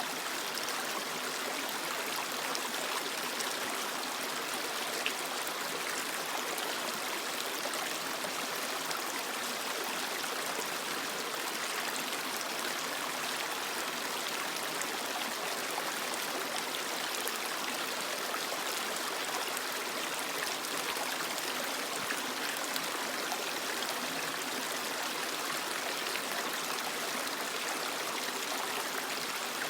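Purisima Creek, a small forest creek, flowing and trickling over rocks in a steady, even rush of water.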